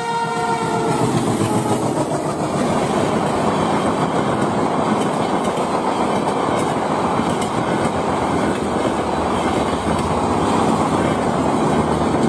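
Diesel-hauled passenger train passing: the locomotive's horn tails off and drops in pitch about a second in, then the steady rumble and clickety-clack of the coaches going by.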